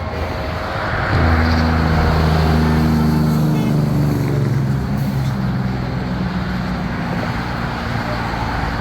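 A big-rig truck's diesel engine passing close by, loud from about a second in, its engine note falling steadily as it goes past and away. Steady road traffic noise underneath.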